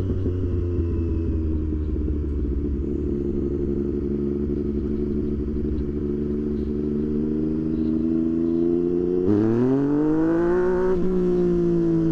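Motorcycle engine running at a steady cruise with the pitch slowly rising, then about nine seconds in the revs jump and climb as the throttle opens, easing off again near the end.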